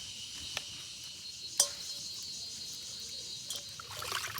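Steady high-pitched chirring of crickets, with a single loud sharp snap about a second and a half in and a patch of quicker clicks and crackle near the end.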